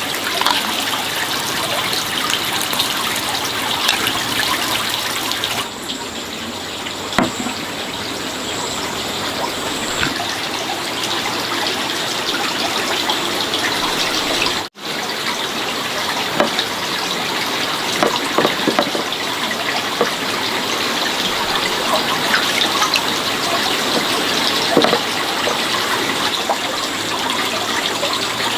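Water running steadily, with a few light knocks and clicks; the sound changes abruptly about a fifth of the way in and again about halfway.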